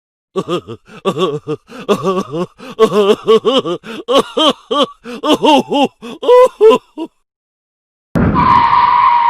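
A vocal sound effect: a quick run of short voice-like syllables, each rising and falling in pitch, ending after about seven seconds. About a second later a different effect starts, a steady high tone over a hiss.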